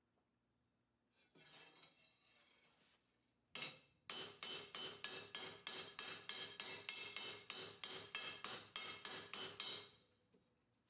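A hand hammer strikes the steel katana blade on an anvil: one blow, then a quick steady run of blows at about three to four a second, each with a bright metallic ring. This is typical of hammering out kinks and bends to straighten the blade after rough forging. A short scraping sound comes before the hammering.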